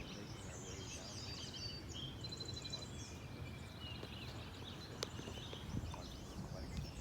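Several songbirds singing and calling, with short chirps, trills and warbled phrases overlapping, over a steady low background noise. A single sharp click comes about five seconds in.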